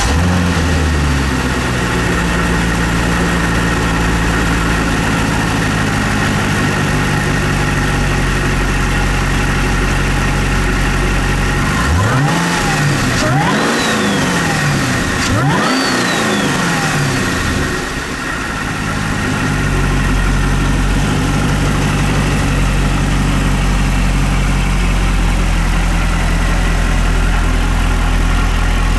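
2012 Cadillac CTS-V's supercharged 6.2L LSA V8 idling steadily with a steady high whine. Midway it is revved three times in quick succession, each rev rising and falling back, before it settles to idle again.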